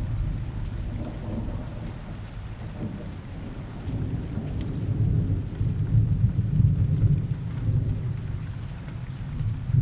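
Steady rain with a low rolling rumble of thunder that eases after the start, swells again about four seconds in, and fades near the end.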